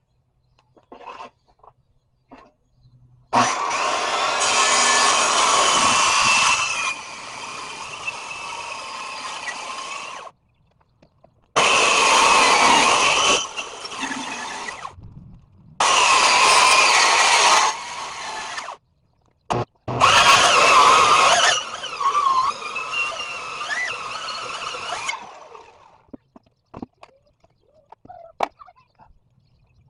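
A power saw cutting walnut in four runs of a few seconds each, each starting and stopping abruptly and louder in its first part.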